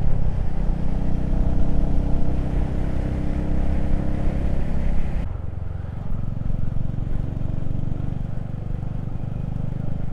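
Motorcycle engine running at a steady road speed, with wind rushing over the microphone. About five seconds in the sound changes suddenly and the high wind hiss drops away, leaving mostly the engine.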